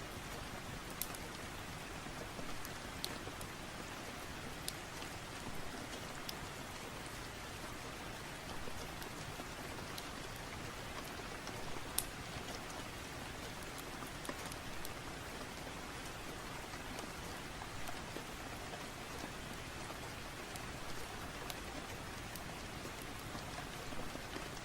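Steady rain falling, with a fireplace's occasional sharp crackles and pops over it.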